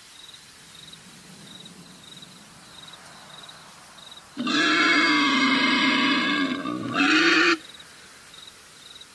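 Wild boar calling: one loud call of about three seconds that starts about four seconds in, with a short break near its end.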